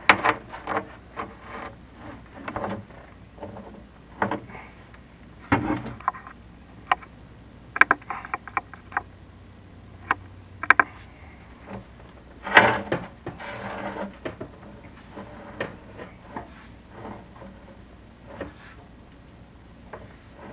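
Chimney inspection camera and its push rods knocking and scraping against the inside of the flue: irregular clunks and short scrapes, with a louder stretch of scraping about twelve seconds in.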